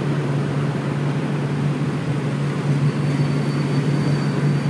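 Steady low engine and exhaust drone of cars moving slowly, under a constant hiss; a faint high whine comes in about halfway through.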